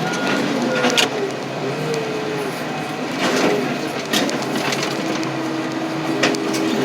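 Heavy scrap-handling machinery running while steel truck frames are pushed into a car crusher, with metal clanks and short gliding squeals of steel on steel.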